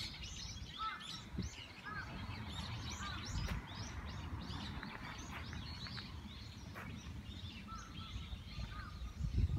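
Many small birds chirping busily in quick, short, high notes, with a lower two-note call repeating about once a second, over a low outdoor rumble.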